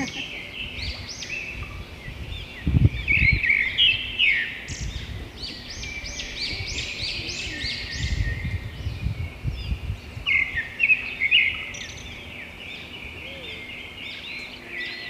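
Songbirds chirping and calling, many short rising-and-falling notes in quick runs, busiest in the first half and again around ten seconds in. Two short stretches of low rumble come through, about three seconds in and around eight seconds in.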